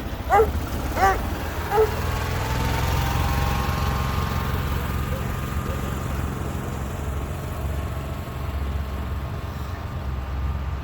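Steady low rumble of a vehicle engine running, with a faint whine that rises slightly in pitch about two seconds in.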